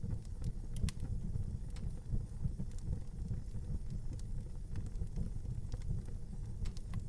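Wood fire burning in an outdoor fireplace: a steady low rumble with scattered sharp crackles and pops.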